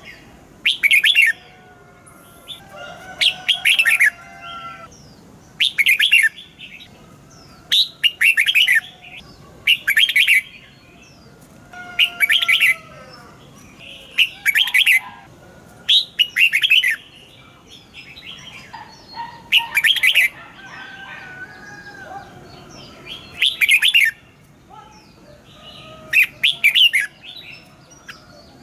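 Red-whiskered bulbuls singing: a loud, short song phrase about every two seconds, with softer, lower whistles between the phrases.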